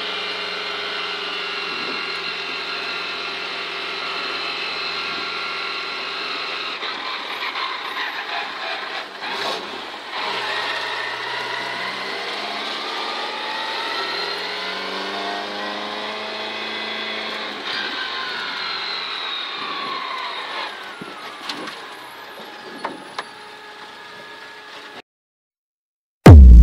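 Opel Ascona rally car's engine heard from inside the cabin, driving on after the stage finish: a steady engine note at first, then rising and falling with throttle and gear changes in the middle, quieter near the end before it cuts off to silence.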